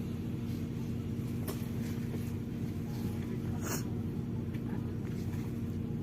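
MAZ-103 city bus heard from inside while under way: a steady engine and road drone with a constant low hum. Two brief clicks, about two seconds apart, stand out over it.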